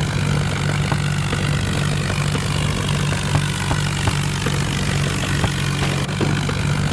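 Diesel engine running steadily, a low hum with regular sharp knocking ticks a few times a second.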